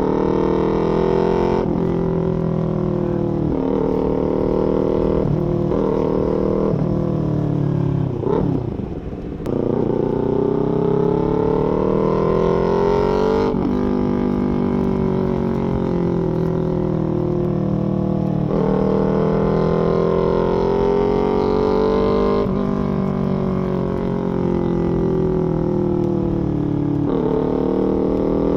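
Small-displacement parallel-twin sport motorcycle with a full aftermarket exhaust, ridden under acceleration. The engine note climbs, then drops sharply at each gear change, about every four to six seconds. About eight seconds in, the sound briefly falls away and then picks up again as the throttle is closed and reopened.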